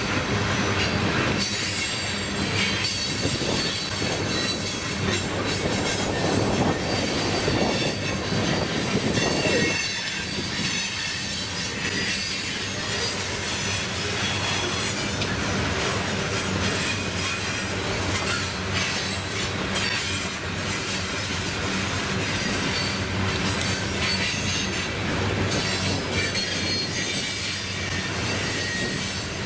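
Coal train's cars rolling past, steel wheels on the rails giving a steady rumble and clatter with high-pitched wheel squeal.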